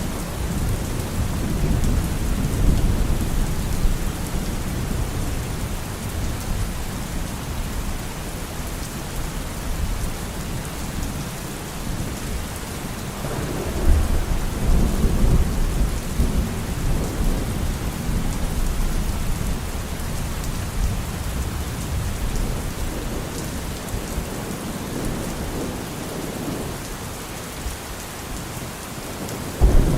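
Steady rain with rolling thunder rumbling throughout; a louder roll of thunder swells about fourteen seconds in.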